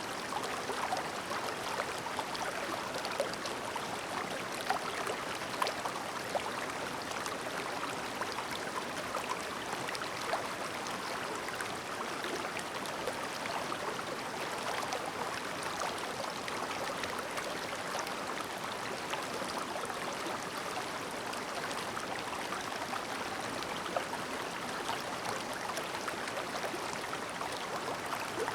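Clear mountain stream babbling: a steady rush of flowing water with small splashes and gurgles scattered through it.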